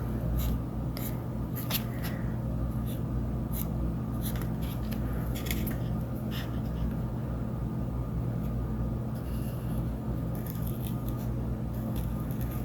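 Black marker drawing on paper in short strokes, heard as scattered brief scratches, over a steady low hum. The strokes cluster in the first several seconds and come back near the end.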